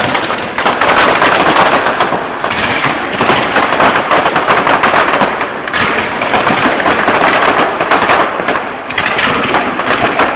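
Fireworks display: a dense, rapid crackle of many small bangs, going on in long volleys with brief lulls.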